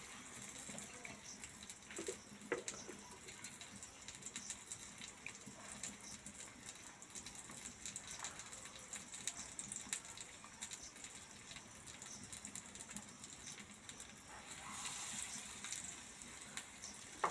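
Besan-battered Malabar spinach leaves sizzling in shallow oil on a flat iron griddle: a faint, steady hiss with small crackles. A couple of light knocks come about two seconds in.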